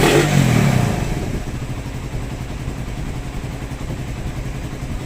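Suzuki Raider 150's single-cylinder four-stroke engine running: a throttle blip that falls back in the first second, then a steady idle. The bike now idles without the hard-starting it had before the repair.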